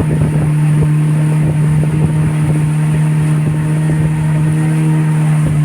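Boat engine running steadily at a constant pitch, a low, even hum.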